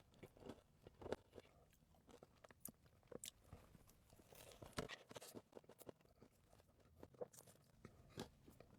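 Close-miked chewing of a chocolate donut topped with M&Ms: faint, irregular crunches as the candy shells break between the teeth.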